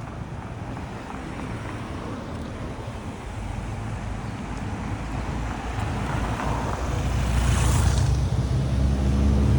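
Street traffic: a motor vehicle approaches and grows steadily louder, with a tyre swish passing about eight seconds in and a low engine hum strongest near the end.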